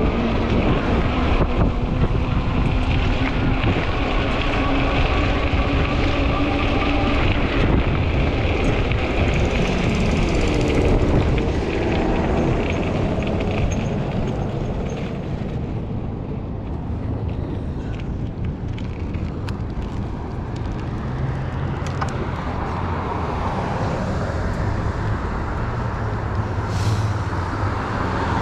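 Wind rushing over the microphone of a moving e-bike, with road traffic noise from passing vehicles.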